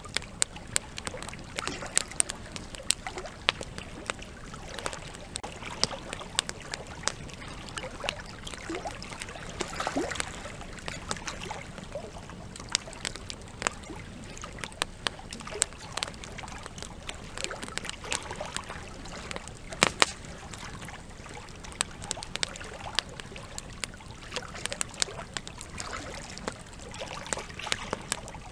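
Campfire crackling with frequent sharp pops, one especially loud pop about twenty seconds in, over the steady rush of flowing river water.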